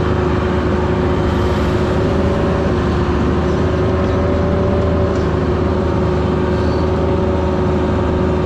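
Mini excavator's diesel engine running steadily while digging, with a constant pitched hum over the engine noise.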